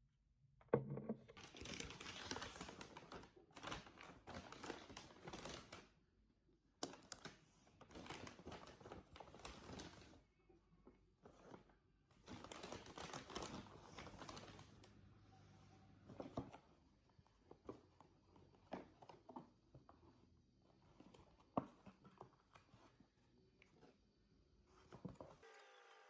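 Packaging being handled: three stretches of crinkling and rustling, each a few seconds long, then scattered light knocks and clicks.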